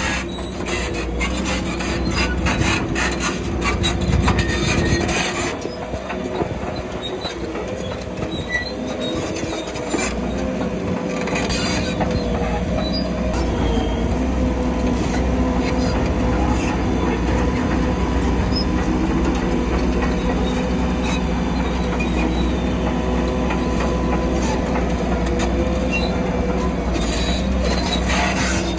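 Shantui crawler bulldozer working: its diesel engine runs steadily under a metallic whine from the steel tracks, with a dense clatter of clanks for the first five seconds or so.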